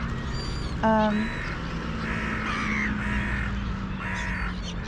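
Crows cawing: one loud, short caw about a second in, then several fainter caws spaced about a second apart. Thin, high chirps of small birds sound near the start, over a steady low hum.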